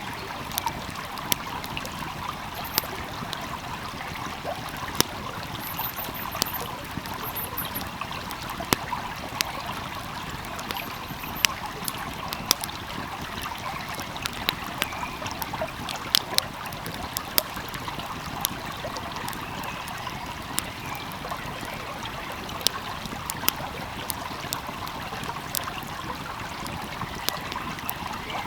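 A stream flowing steadily, with a wood fire crackling in sharp, irregular pops over it.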